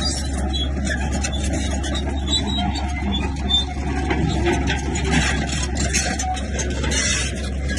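Diesel engine of heavy earthmoving machinery running steadily under work, with a constant low drone and irregular mechanical noise over it.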